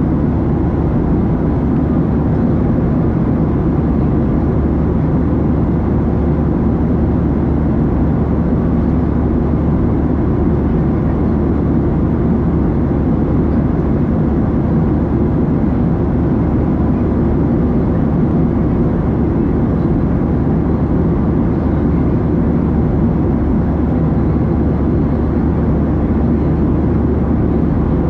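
Steady low rumble inside the passenger cabin of a Boeing 737-700 airliner, its CFM56 turbofan engines running, with no change in level.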